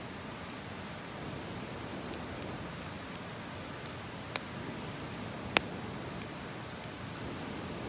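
Wood campfire burning with a steady hiss and a few sharp pops and crackles, the loudest about halfway through.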